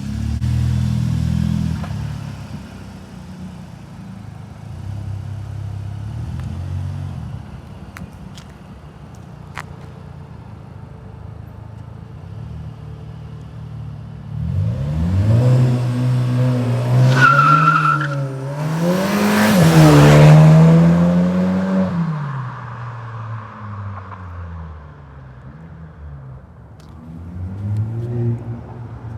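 Turbocharged 2.0-litre four-cylinder of a 2020 Volkswagen Jetta GLI fitted with an APR intake, running and then accelerating hard about halfway through, its pitch climbing in steps over several seconds with a brief high whistle before dropping off. The engine is heard lower at the start and rises again near the end.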